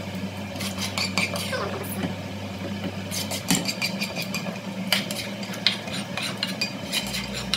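Spatula scraping meat sauce out of a cooking pot, a series of short scrapes and light knocks against the pot in several clusters.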